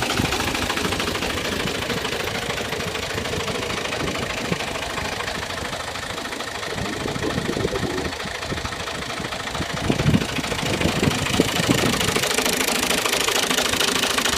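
New Holland Al-Ghazi tractor's diesel engine running with a steady firing beat, getting louder with a few sharp knocks from about ten seconds in.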